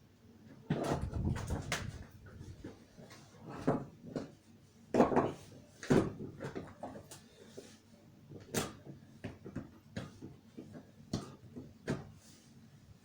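Irregular metal clunks and knocks from work fitting a VAZ 2104 engine into the engine bay as it hangs from a winch. There is a longer rumbling clatter about a second in, then separate sharp knocks every second or two.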